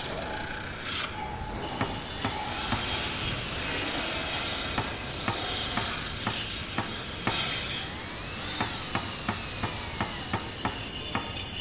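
Construction-site noise: a steady hiss with sharp knocks of tools striking, irregular at first and then coming two or three times a second in the second half.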